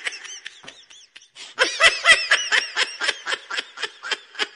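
A person's laughter in a rapid ha-ha-ha, dying away in the first second, then a fresh loud burst about one and a half seconds in that tails off.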